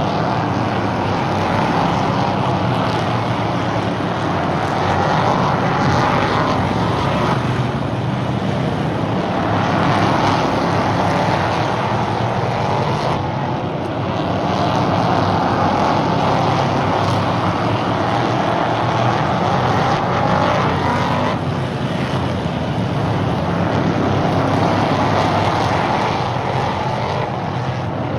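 Stock car engines running at race speed on an oval track, a steady loud drone whose pitch rises and falls every few seconds as the cars accelerate down the straights and lift for the turns.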